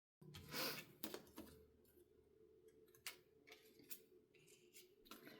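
Faint handling of die-cut paper pieces: a short rustle near the start, then a few light, scattered taps and clicks as the pieces are set down and moved.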